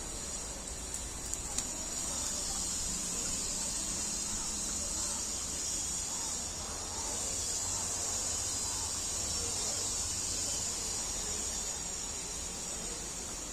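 A steady, high-pitched chorus of insects, such as crickets, droning without a break, with a couple of faint clicks about a second in.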